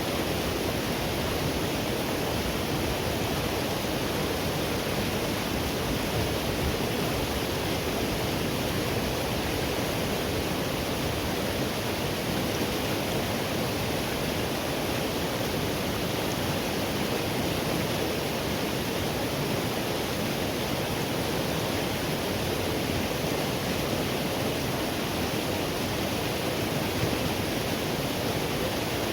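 River water flowing over a forest streambed: a steady, even rush without breaks or separate splashes.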